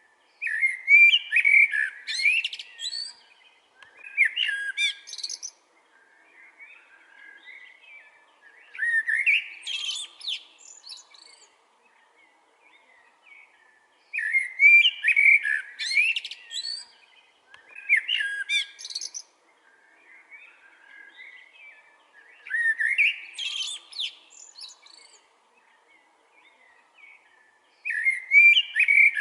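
Eurasian blackbird singing: loud fluty phrases that end in a high twitter, with short pauses and softer warbling between them. The same run of phrases comes round again about every 13 to 14 seconds.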